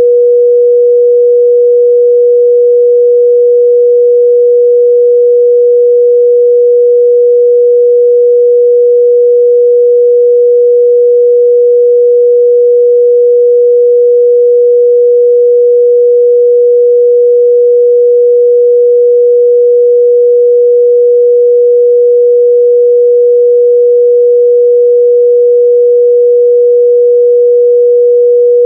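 Steady 484 Hz sine-wave test tone, a single pure pitch held unchanging at constant loudness.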